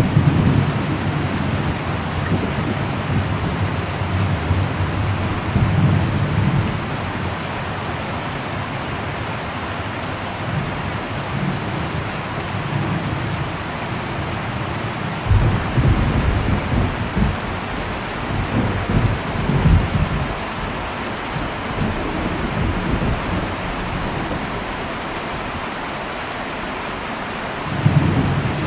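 Heavy rain falling steadily on an old metal roof, with thunder rumbling low in several waves; the longest roll comes about halfway through and another begins near the end.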